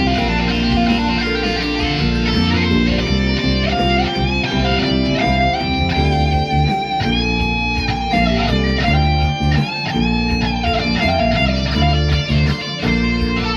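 Instrumental guitar music: a lead guitar line of held notes that bend and slide in pitch, over a steady low bass backing.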